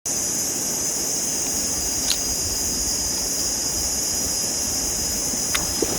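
Steady high-pitched insect chorus, with two short sharp clicks, one about two seconds in and one near the end.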